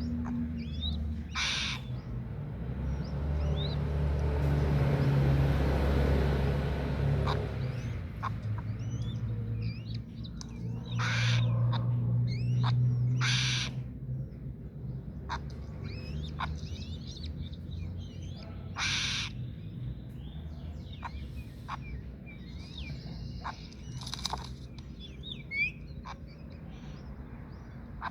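Birds chirping and calling, many short high chirps, with about five short harsh, hissing calls spread through. A low rumble sits under them, strongest in the first half.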